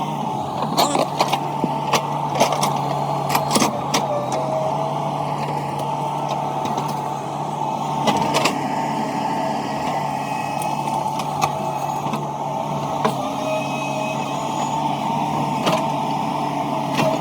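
Hydraulic excavator's diesel engine running steadily, with a hydraulic whine over the engine drone and a few sharp metallic knocks and clanks scattered through, most of them in the first few seconds.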